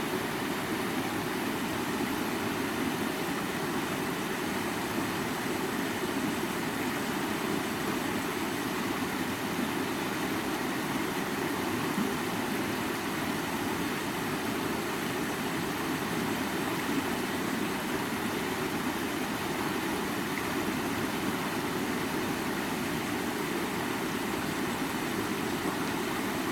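A stream of water running over rocks, as a steady even rush that is strongest in its lower tones.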